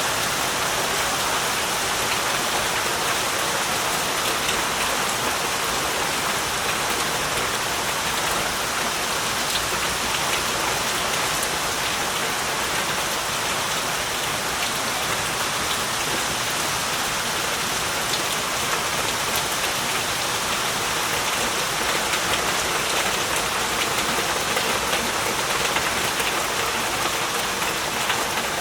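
Heavy rain falling steadily, an even hiss of many drops on the ground and leaves, without let-up.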